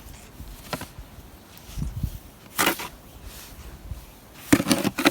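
A snow shovel scraping and chopping into deep snow, in a few separate strokes, with the strongest ones about halfway through and a quick cluster near the end.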